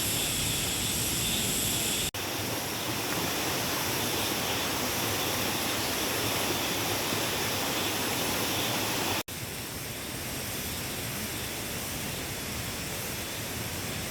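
Mountain valley stream rushing steadily. The sound breaks off for an instant about two seconds in and again about nine seconds in, coming back a little quieter each time.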